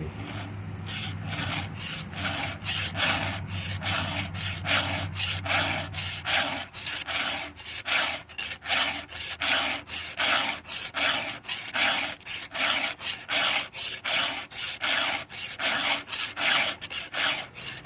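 A hand file being drawn across a chainsaw chain's cutting tooth to sharpen it, in steady, even strokes of about three a second.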